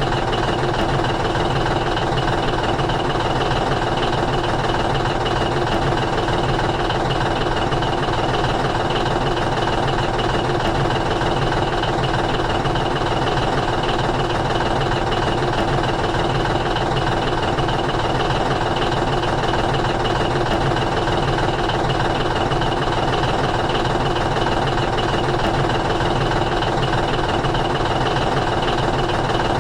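A steady engine-like hum at an even level, unchanging throughout.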